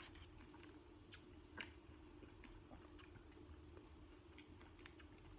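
Faint chewing of a Bulla Crunch ice cream bar with a crunchy chocolate-and-cookie coating: soft scattered crunches and mouth clicks, one a little louder about a second and a half in, over a low steady hum.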